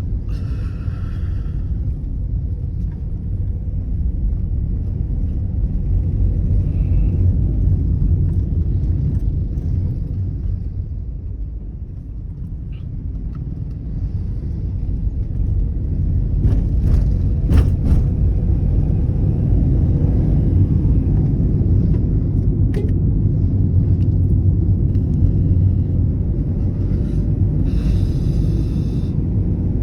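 Car on the move: a steady low rumble of engine and road noise that eases off around twelve seconds in and then builds again. A few brief higher-pitched sounds come through near the start and near the end.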